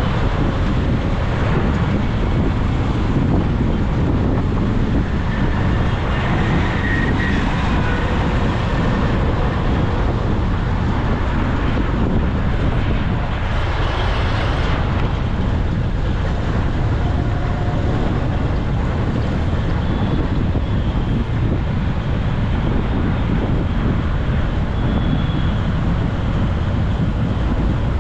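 Steady rushing wind on the microphone with road and traffic noise during a motorcycle ride through city traffic.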